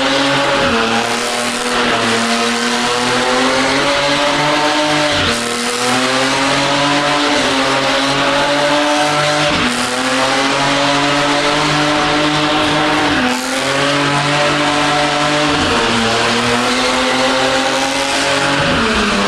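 Drift car's engine held at high revs with tyre squeal, the revs dipping sharply and climbing back several times.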